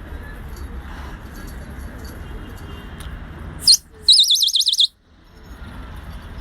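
A high whistled call: a short rising note, then a loud, fast warbling trill lasting under a second, over a steady low rumble of background noise.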